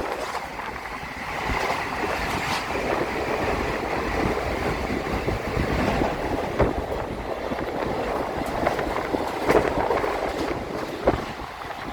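Moving train heard from on board: a steady rumble and rattle of the carriage running on the rails, with occasional sharp knocks from the wheels.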